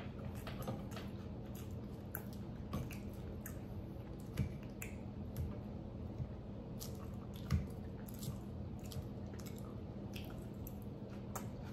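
Close-miked chewing: scattered soft wet mouth clicks and squishes, with a few louder light knocks as a fork picks at salad on the plate, over a steady low hum.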